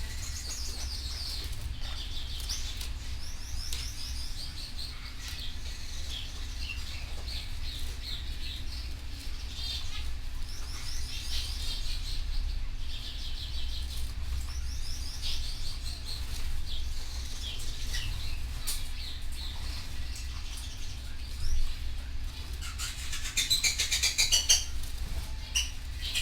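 Canary singing: phrases of rapid, high repeated notes and trills that go on with only short breaks, with a louder, denser burst near the end. A steady low hum runs underneath.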